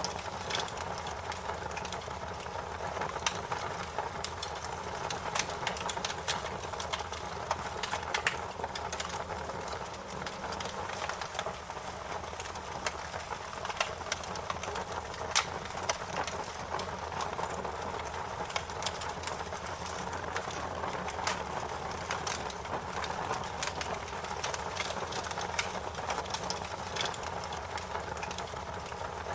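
Wood fire crackling: a steady hiss with frequent sharp pops and snaps scattered irregularly throughout.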